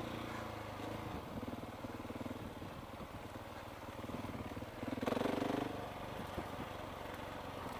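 KTM 690 motorcycle engine running at low revs off-road, briefly louder about five seconds in.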